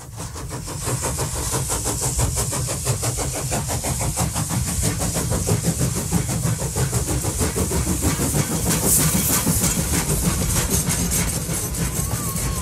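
Train running with a fast, even chugging rhythm over a low rumble and hiss, fading in at the start.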